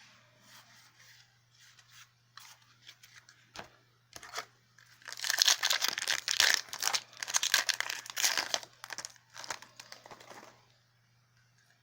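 A foil booster-pack wrapper being torn open and crinkled. A few light handling clicks come first, then about five seconds of dense, loud crackling starting around five seconds in.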